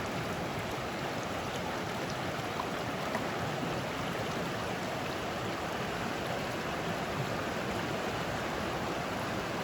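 Loyalsock Creek running steadily over rocks: an even, unbroken rush of flowing water.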